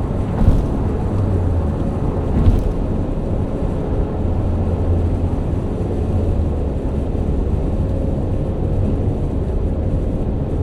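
Alfa Romeo GTV's 3.0-litre V6 engine running steadily with a low, even drone, and two short knocks about half a second and two and a half seconds in.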